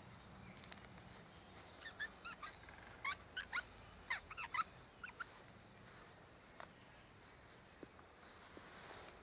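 A small bird chirping: a quick run of short, wavering calls for a few seconds, over a quiet background.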